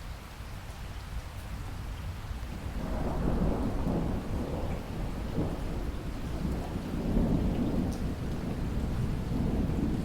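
Steady rain falling, with a low roll of thunder that builds about three seconds in, rumbles on and swells again toward the end.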